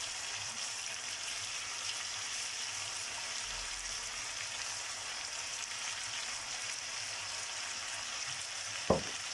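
Steady sizzle of vegetables and white fish frying in oil in a pan, with a single short knock near the end.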